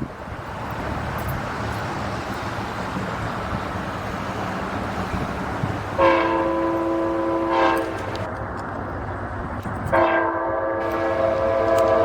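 An approaching Amtrak train's multi-tone air horn sounds two long blasts, the first about halfway in and the second near the end, over steady background noise.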